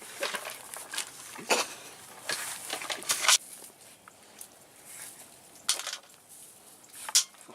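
Dry dog kibble clicking and crunching in a dish as a puppy eats, in irregular sharp clicks, a few of them louder.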